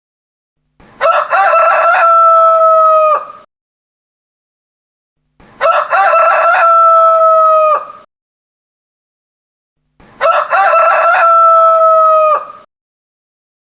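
A rooster crowing three times, each crow about two and a half seconds long and ending in a long held note, with silence between crows.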